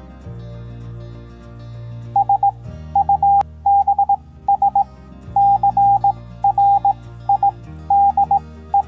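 Morse code beeps: a single steady tone keyed in short and long beeps, in groups like letters, starting about two seconds in and running on in bursts. Soft background music chords play underneath.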